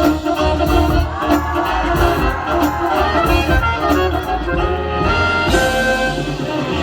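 Marching band playing its field show music: full ensemble with sustained melodic lines over a steady low bass and drum pulse.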